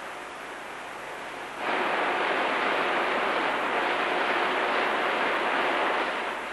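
Cooling water rushing through the pipes of a large two-stroke marine diesel engine as it is turned on before starting: a steady rush that comes in suddenly about two seconds in, holds for about four seconds, then fades.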